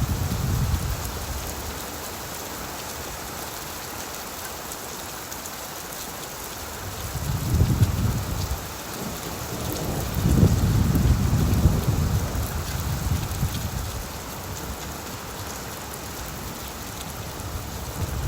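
Steady rain falling on leaves, a constant pattering hiss. Low rumbling swells lasting a second or two come and go over it: at the start, twice in the middle and again at the very end.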